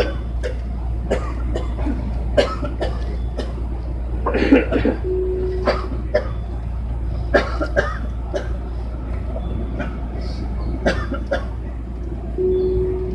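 Interior of a Tobu 60000 series electric train standing before departure: a steady low hum with scattered clicks and knocks. A short steady beep sounds twice, once about five seconds in and again near the end.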